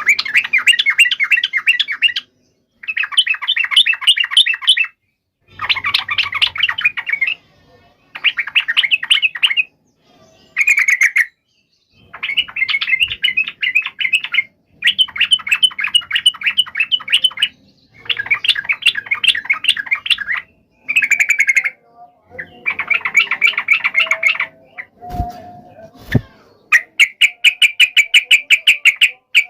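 Yellow-vented bulbul (trucuk) singing a loud, agitated 'fighting' song: a dozen or so bursts of rapid chattering notes, each one to two seconds long, with short pauses between them. The last phrase is an even, fast run of notes. Two soft low knocks come shortly before it.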